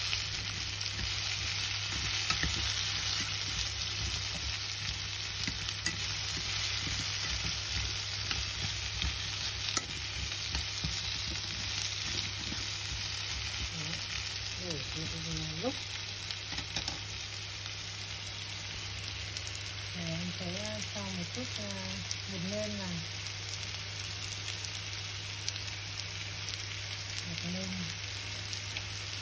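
Pumpkin slices with garlic sizzling in oil in a nonstick frying pan, a steady hiss, while wooden chopsticks stir and turn them with light clicks and scrapes against the pan, busiest in the first half.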